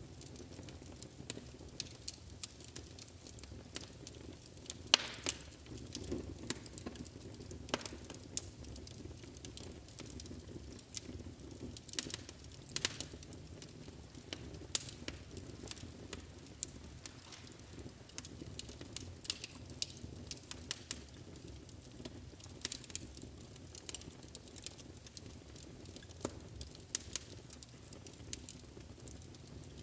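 Wood fire burning in a fireplace: a steady low rumble of flames with irregular sharp crackles and pops, several each second, a few much louder than the rest.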